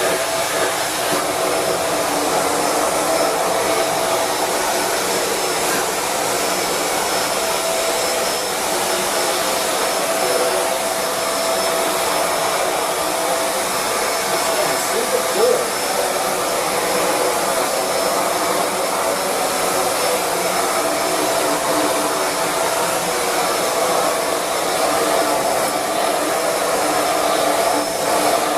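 Shark Rotator Speed Lift-Away vacuum cleaner running steadily, used in lift-away mode with its Hard Floor Hero attachment to clean a hard floor. The motor and airflow make an even rushing sound with a faint steady hum.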